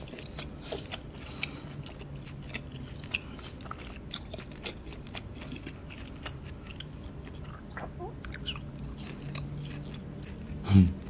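Close-up chewing of roast lamb leg meat: a run of wet mouth clicks and smacks, the meat not very tender. Near the end comes one short, loud hummed "mm".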